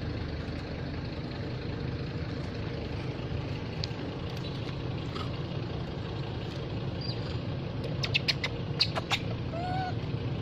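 A steady low rumble of background noise, with a quick cluster of sharp clicks about eight to nine seconds in. Short high squeaks come briefly, the last near the end, from a baby monkey.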